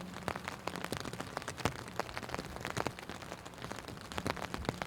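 Rain falling steadily, with many separate drops ticking irregularly close by over a hiss of rain.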